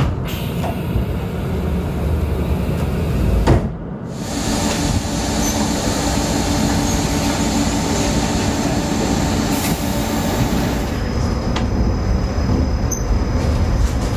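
Passenger train at a station: a steady low rumble and hum. About four seconds in the sound breaks off briefly and resumes as a steadier drone with a held hum.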